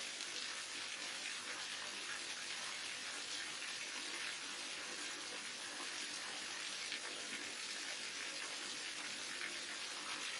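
Waterfall: water falling and splashing in a steady, unbroken rush, with no single drops or events standing out.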